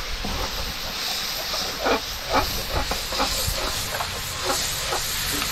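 Food frying in hot oil in a pan with a steady hiss, with a few light knocks from stirring, and wind rumbling on the microphone.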